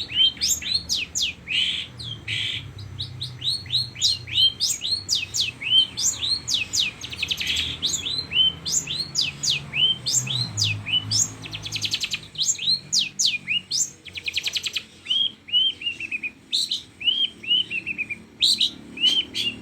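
Long-tailed shrike (cendet) singing continuously, a rapid string of sharp, downward-slurred whistled notes broken by short harsh rasps. The song is filled out with mimicked lovebird calls.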